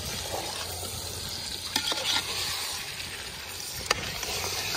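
Marinated chicken sizzling in a pot of hot oil and fried onion-tomato masala while being stirred, just after the chicken has gone in. A couple of sharp clicks come through the steady sizzle, one near the middle and one near the end.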